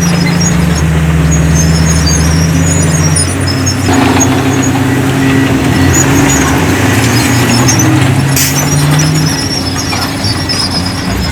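Heavy diesel engines of earthmoving machinery (bulldozer and dump trucks) running under load, the engine note stepping up and down in pitch several times. Scattered high squeaks ride over it, and a sharp clank comes about eight and a half seconds in.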